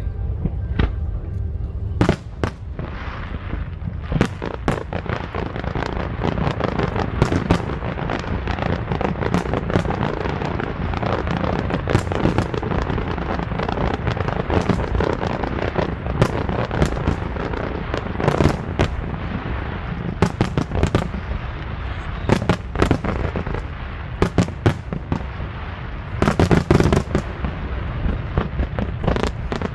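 Aerial fireworks display going off: many sharp bangs and pops, several a second, over a continuous dense din of bursts, with a louder cluster of bangs near the end.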